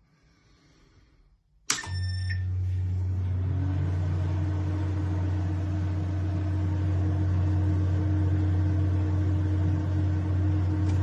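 Microwave oven started with a short beep, then running with a steady loud electrical hum and a fan or motor note that rises in pitch as it spins up over the first couple of seconds. The owner complains that this new microwave counts down without heating the food or turning the turntable.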